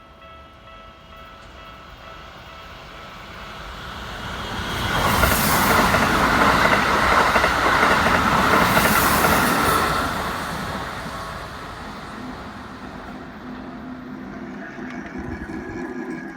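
Level crossing warning bell ringing as a Keikyu electric train runs over the crossing. The passing train builds up about four seconds in, is loudest from about five to ten seconds in, then fades away.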